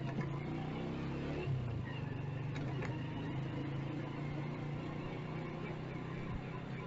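Motorcycle engine running steadily under way, a constant low hum with faint road and traffic noise.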